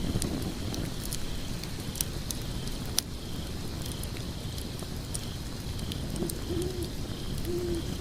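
Wood logs burning, with a steady low rumble of flames and scattered crackles and sharp pops, the loudest about two and three seconds in. Near the end come a few short, low hoots.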